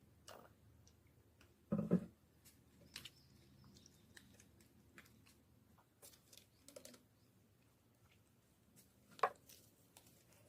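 Slime being handled by hand: faint, scattered sticky squishes and crackly clicks, with a louder squish about two seconds in and another sharp one near the end.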